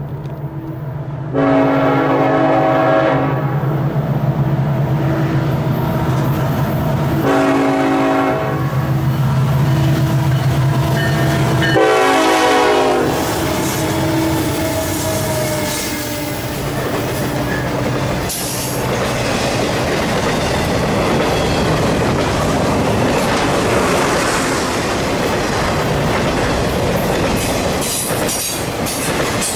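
Lead locomotive's Nathan K5LLA five-chime air horn sounding three blasts over the steady drone of its diesel engine, the pitch of the last blast dropping as the locomotive passes. The train then rolls by with steady wheel and rail clatter.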